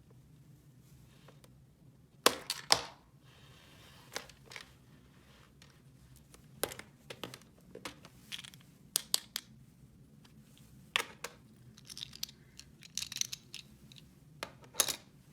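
Hands handling small plastic toy pieces and packaging: scattered light clicks and taps with short bursts of crinkling and rustling, including a pair of sharper clicks a couple of seconds in.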